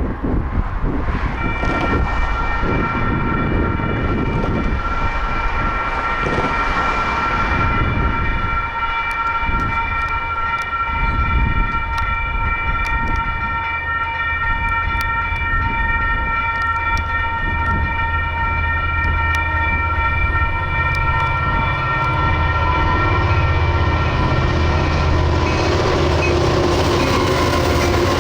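Railroad grade-crossing warning bell ringing steadily while the crossing signals are active. In the last several seconds, the low rumble of approaching diesel freight locomotives builds beneath it.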